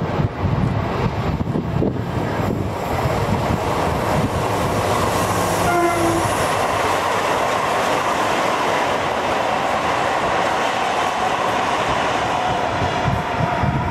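Renfe class 333.3 diesel locomotive hauling a train of bioethanol tank wagons past, its rumble giving way to the steady rolling noise of the wagons on the rails. A short horn note sounds about six seconds in.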